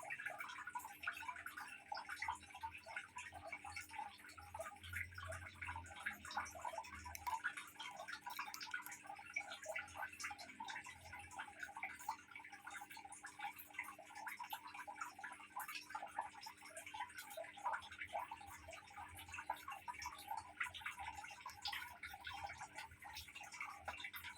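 Water trickling and dripping into an aquarium: a dense, irregular patter of small drips and plinks, over a faint steady low hum.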